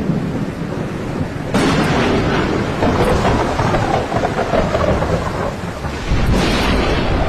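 Heavy monsoon rain pouring down in a dense, steady hiss. It swells suddenly a second and a half in, and again near the end with a deep rumble.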